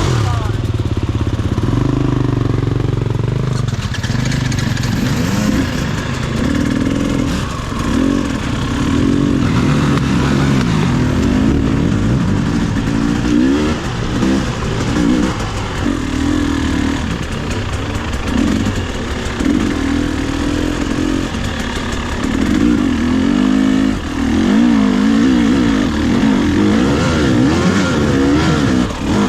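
Two-stroke enduro dirt bike, a Husqvarna TE 300i, ridden on and off the throttle, its engine pitch rising and falling again and again.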